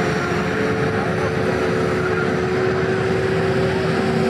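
A vehicle engine running at a steady speed: a held drone over a broad rush of noise.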